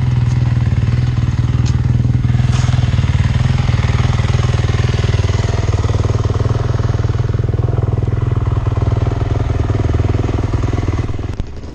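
A vehicle engine running steadily up close, a loud low hum with no big revs, which cuts off abruptly just before the end.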